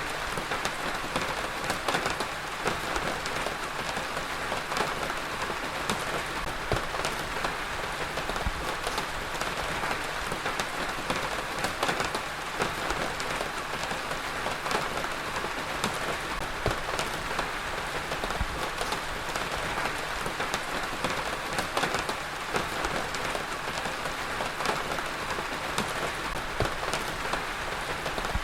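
Heavy rain falling steadily, a dense even hiss of drops with many small sharp drop ticks on a hard surface.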